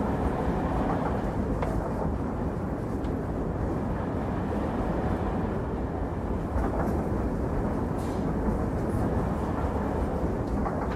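Steady low rumble of a train running on the track.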